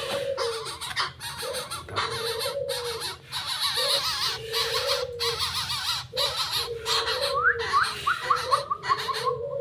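Young coucal calling: a low, wavering call repeated about once a second, with a quick run of high chirps near the end.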